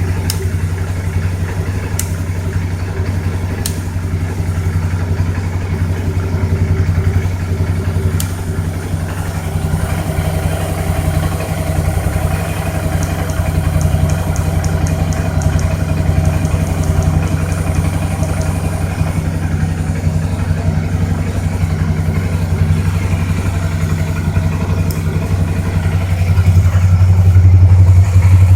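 Suzuki V-Strom DL650's 645 cc V-twin engine running steadily, getting louder near the end.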